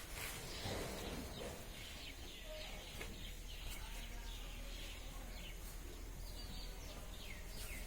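Faint outdoor background with birds chirping now and then in short falling calls, over a low steady hum.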